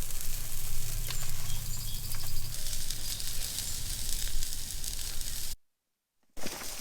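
Food sizzling on a hot griddle: a steady frying hiss with small crackles that stops abruptly about five and a half seconds in.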